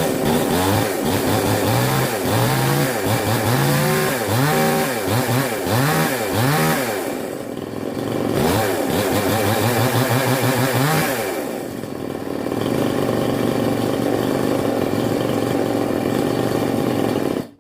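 Petrol two-stroke chainsaw engine running, its throttle blipped again and again so the revs rise and fall about once a second. It then runs at a steady speed for several seconds before cutting off suddenly at the end.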